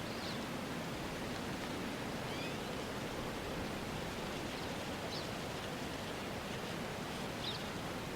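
Steady outdoor noise ambience, like wind, with a faint high squeak about every two and a half seconds.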